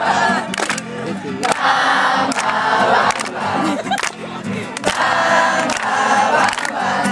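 A group of people singing together along with music, over a steady beat a little under once a second.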